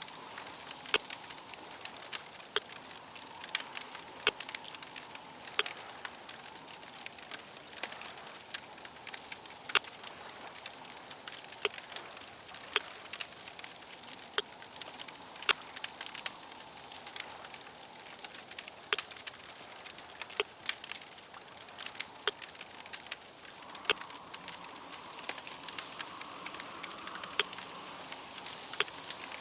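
Fire crackling: a steady hiss with frequent, irregular sharp pops and snaps. A faint drone swells in near the end.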